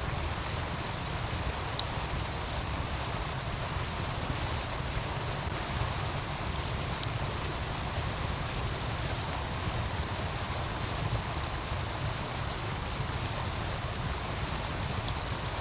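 Wood fire crackling with sparse sharp pops, one louder pop about two seconds in, over the steady rush of a meltwater stream.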